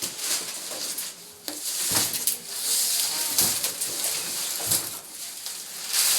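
Packaging being pulled off a new washing machine during unboxing: continuous crinkling and rustling of wrapping, broken by frequent knocks and clicks.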